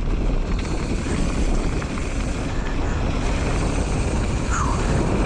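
Steady rush of wind buffeting the microphone and tyre noise from a mountain bike rolling fast down a wet dirt trail.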